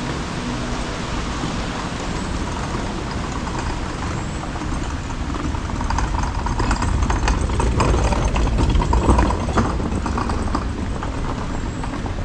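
Zoo tram riding along: a steady rumble and road noise, growing louder with rattling and clatter about halfway through before easing again.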